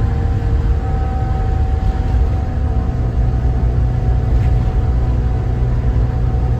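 Cab and engine noise of a 2014 Thomas Saf-T-Liner C2 school bus under way, its Cummins ISB 6.7 inline-six turbodiesel running with a steady low rumble and a faint steady whine above it.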